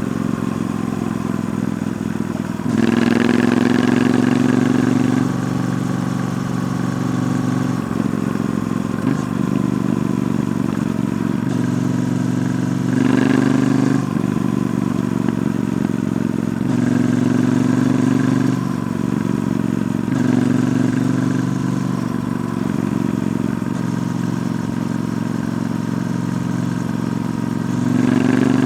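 Stock exhaust of a Triumph Bonneville T120's 1200 cc parallel-twin engine under way, the note swelling in several surges as the throttle is opened and easing back between them.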